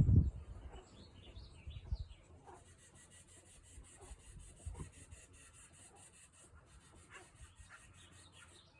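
Faint, short bird chirps scattered over a high, fast-pulsing trill in the background, with a few low thumps at the very start.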